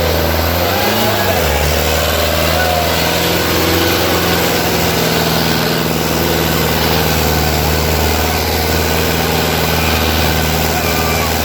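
Sonalika DI 750 III tractor's diesel engine running steadily. Its pitch dips and comes back up about a second in.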